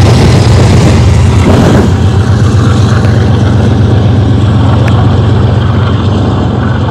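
BNSF diesel freight locomotives pulling a double-stack train past at close range: a loud, steady low engine drone mixed with the rumble of wheels on rail. It eases off slightly near the end as the lead units draw away.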